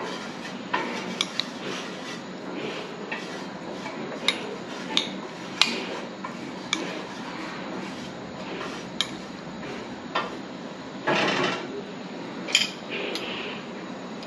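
A serving utensil clinking and scraping against a bowl and plate as sautéed vegetables are spooned out: scattered light taps and clicks, with a longer scrape about eleven seconds in.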